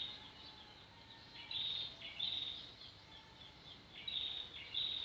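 A bird calling repeatedly outdoors: short high-pitched chirps, mostly in pairs, coming every second or so over faint outdoor background noise.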